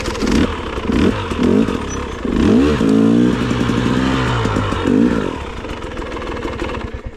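Dirt bike engine revving up and down in repeated bursts, with clatter. The bike is being worked over rough, rocky ground. The engine falls away near the end.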